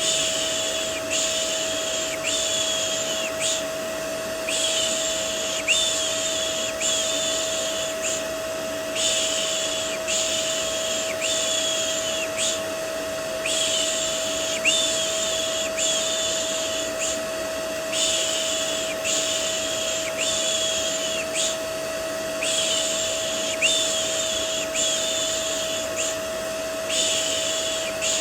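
Vacuum cleaner running steadily, a constant hiss with one steady whine, used as white noise. Over it a person shushes "shh, shh" to soothe a baby, in runs of four or five quick shushes with short breaks between the runs.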